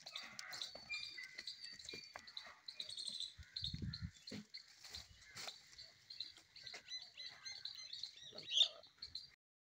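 Birds chirping busily, with a dull low thump about four seconds in; the sound cuts off suddenly near the end.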